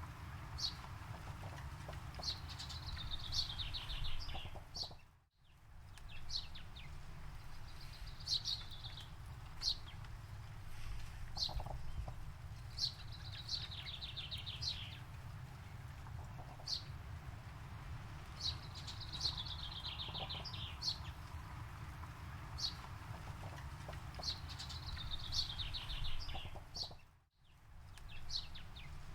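Forest birdsong: a bird repeats a descending trilled phrase every few seconds, with short chirps in between, over a steady low rumble. The sound briefly fades out twice, about five seconds in and near the end.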